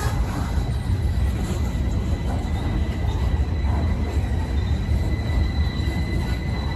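Freight train cars rolling past in a steady low rumble, with a faint, thin, steady high squeal from the wheels.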